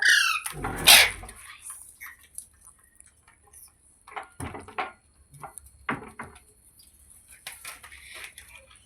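Indian ringneck parakeet giving a short call that falls in pitch, then a loud harsh screech about a second in. After that come a few scattered taps and clinks.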